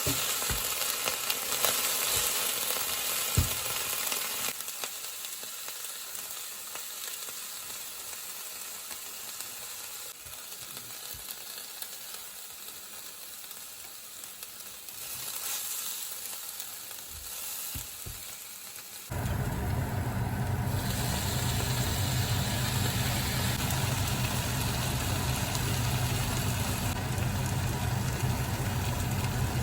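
Chili con carne frying in a pan, sizzling while it is stirred, with scattered scrapes and clicks; the sizzle grows quieter after about four seconds. About two-thirds of the way through, a steady low hum with a rushing noise cuts in suddenly and continues.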